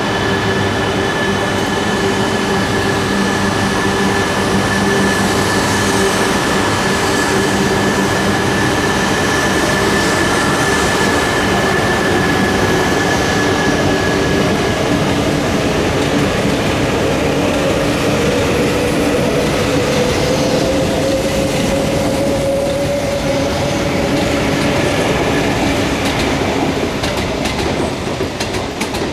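Coupled Tohoku Shinkansen train moving slowly along the station platform, its electric traction motors whining with steady tones and one that rises slowly in pitch about two-thirds of the way through, over rumbling wheels.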